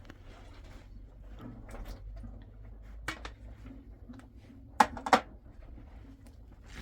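A few sharp knocks or clatters over a low steady background. One comes about three seconds in, and the two loudest come close together about five seconds in.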